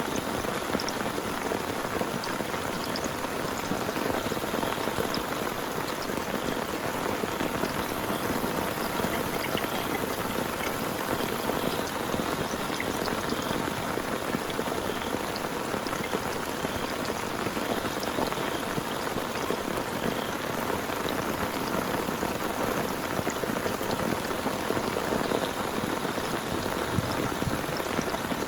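Heavy rain falling steadily, a dense even hiss full of small drop impacts.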